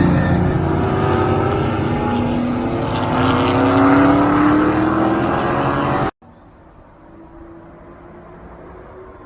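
ASA road race car's engine accelerating hard, its pitch rising steadily. About six seconds in, the sound cuts off abruptly to a much quieter, steady engine hum.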